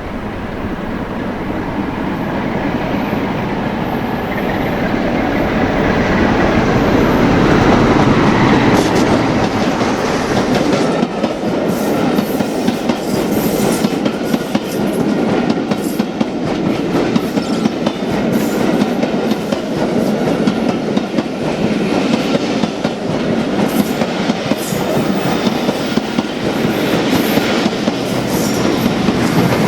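A train passing close by. Its rumble builds over the first several seconds, then its wheels clatter over the rail joints in a long, rapid run of clicks.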